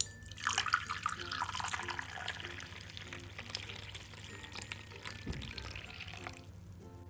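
Liquid running or pouring for about six seconds, then stopping, with soft background music underneath.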